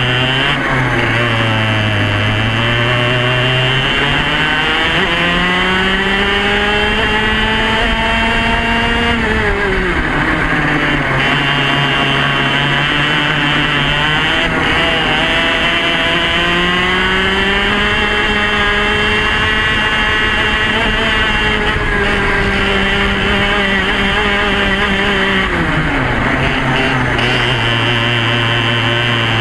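Yamaha KT100 100cc two-stroke kart engine at full racing effort, its pitch climbing steadily for several seconds and then dropping sharply as it comes off the throttle, twice over.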